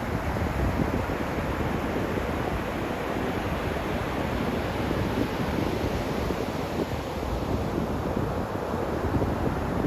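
Steady rushing noise of wind and surf at the seashore, with wind buffeting the microphone.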